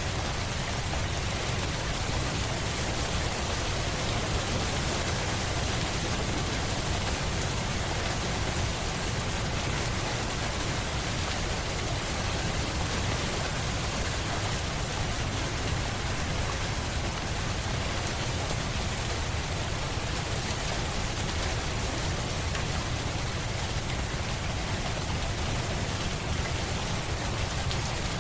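Steady rain falling on a surface: an even hiss with a low rumble underneath, unchanging throughout.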